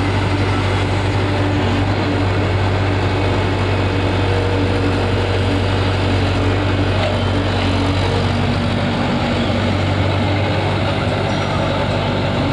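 A heavy diesel engine, such as a tractor's, running steadily at a low, even speed.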